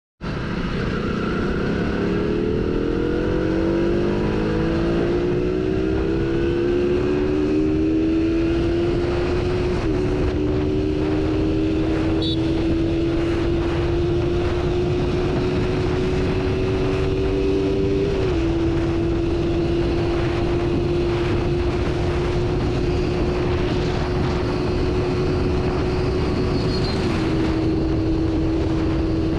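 A motorcycle engine running under way, its note climbing as it speeds up over the first ten seconds, then holding nearly steady with a brief drop in pitch three times. A steady rush of wind and road noise runs beneath it.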